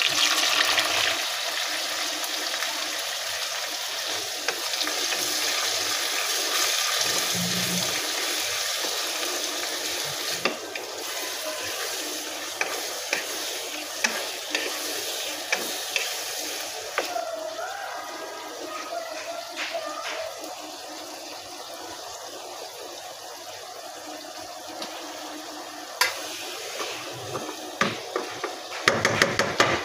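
Sliced tomatoes dropped into hot oil in a kadai, setting off a sudden loud sizzle that settles into a steady frying hiss and slowly fades. A wooden spatula knocks and scrapes against the pan as the mix is stirred, with a quick run of clicks near the end.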